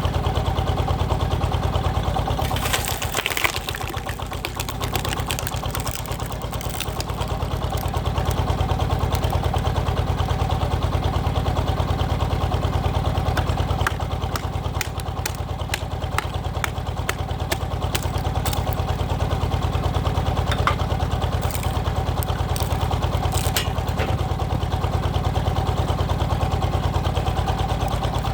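Walking tractor's single-cylinder diesel engine running steadily, powering a hydraulic log splitter, its note dipping for a few seconds early on. Scattered sharp cracks and knocks sound over it, a cluster about three seconds in and more in the second half.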